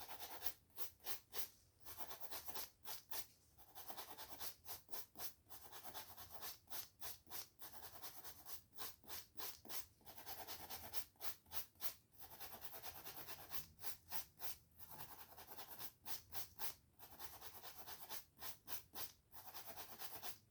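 Hair and scalp being brushed and scratched up close: quick rhythmic scratchy strokes, about three to four a second, in runs separated by short pauses.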